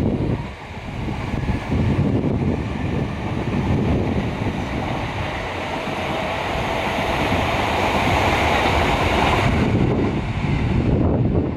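Strong wind buffeting the microphone: a loud, gusting low rumble over a steady rushing hiss, the hiss dropping away about eleven seconds in.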